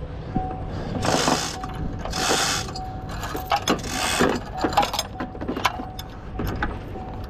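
Ratcheting metal mechanism: rapid clicks and rattles, with three short, loud noisy bursts about one, two and four seconds in.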